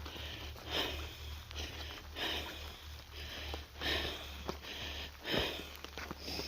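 A person breathing hard while walking uphill, one breath about every second and a half.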